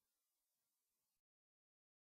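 Near silence: a very faint hiss that cuts off to total digital silence a little over a second in.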